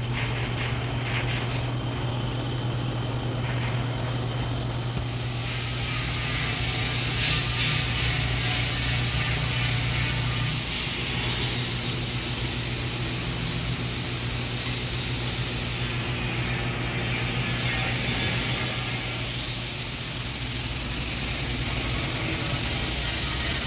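MIG welding arc, a steady crackling hiss that starts about five seconds in and holds, over a low, constant hum.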